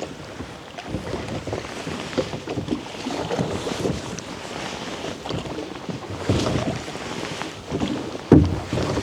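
Small rowboat being rowed: water sloshing and the oars knocking, with wind on the microphone. Louder splashing strokes come about six seconds in and again near the end.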